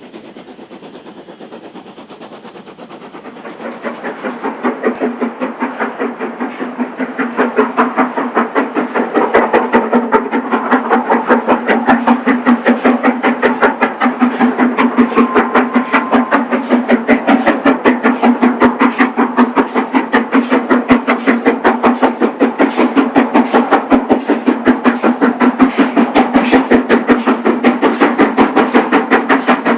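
Steam locomotive working hard on a climb, its exhaust beating in a fast, even rhythm that grows louder over the first several seconds as it approaches, then holds at full strength.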